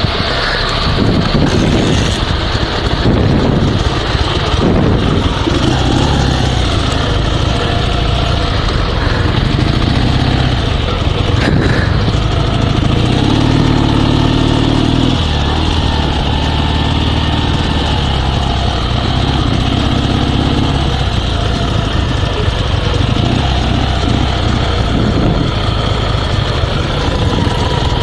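Dnepr sidecar motorcycle's flat-twin boxer engine running at idle, swelling in speed a couple of times around the middle. It is running again after fuel-starvation stalls, with the fuel line now fed straight to the carburetors.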